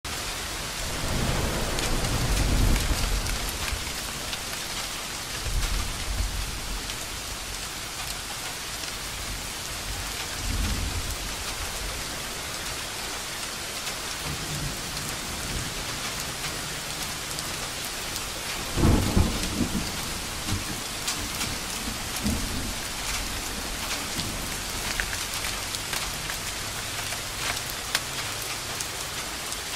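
Steady rain with thunder rumbling several times. The loudest, sharpest thunderclap comes a little past the middle.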